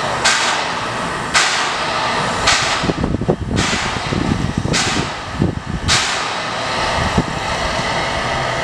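Steam locomotive exhaust chuffing slowly as it moves off, six sharp chuffs about a second apart, then a steady hiss of steam.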